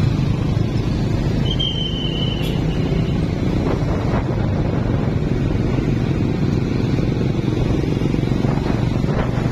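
Small carburetted Honda Blade motorcycle engine running steadily while riding, mixed with a low rumble of wind on the microphone. A brief high beep sounds about one and a half seconds in.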